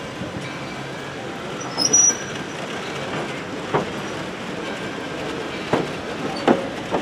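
Vintage passenger coaches rolling slowly past: a steady rumble of wheels on rail, a brief high squeal about two seconds in, and several sharp clacks of wheels over rail joints in the second half.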